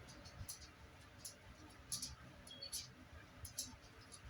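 Scattered raindrops ticking irregularly on a hard surface during a storm, two or three faint sharp ticks a second over a low rumble of wind and rain.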